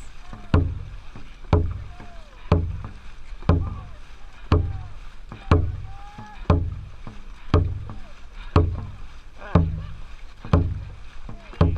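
Dragon boat drum beating the stroke rate, one deep thump about every second, with faint short calls from the crew between beats.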